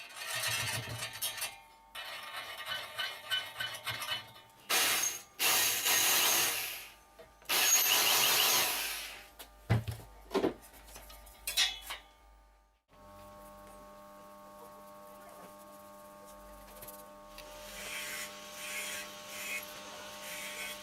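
Workshop tool noise: a series of short scraping or sawing strokes, each lasting a second or two, then a steady low hum with more scraping near the end.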